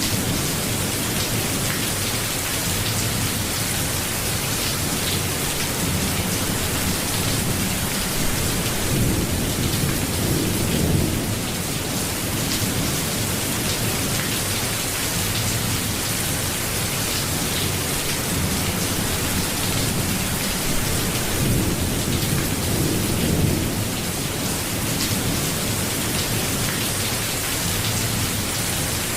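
Steady rain falling with low rolling thunder rumbles that swell now and then, strongest about ten seconds in and again about twenty-two seconds in.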